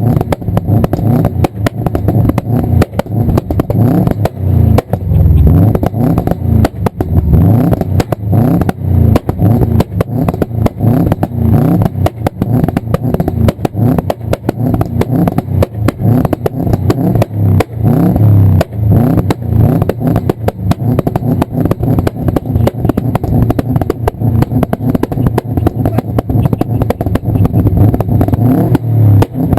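Performance car's engine running, its exhaust giving off a dense, continuous stream of sharp pops and bangs: exhaust backfire.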